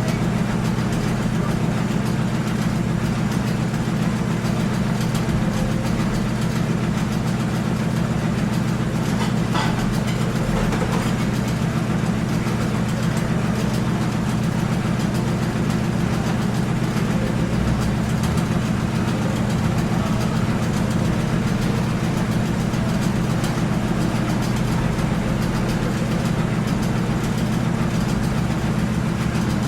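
Steady low drone of an idling vehicle engine, unchanging throughout, with a faint click about nine and a half seconds in.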